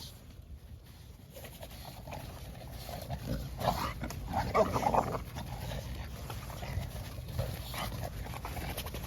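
American bully dogs playing rough together, with dog vocal sounds that are loudest about four to five seconds in.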